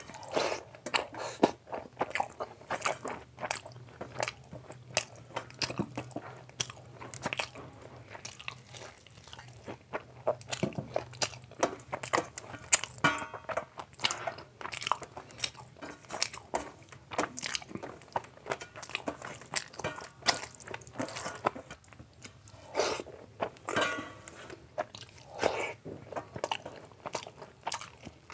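A person chewing a mouthful of rice and curry eaten by hand, close to the microphone: wet mouth smacks and many sharp, irregular clicks.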